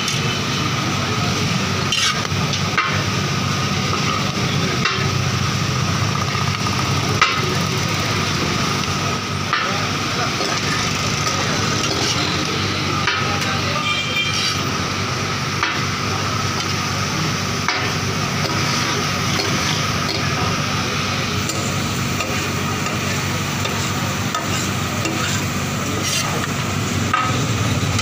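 Beef mince sizzling and frying on a large flat tawa griddle, with metal spatulas scraping and clinking against the griddle at irregular moments as the mince is stirred and chopped.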